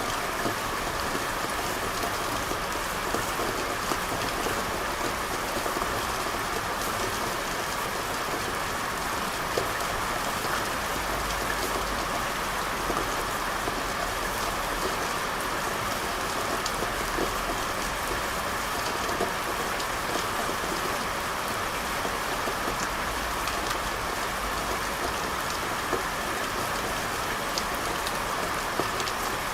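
Steady rain falling on a street: an even, unbroken hiss with many small drop ticks scattered through it.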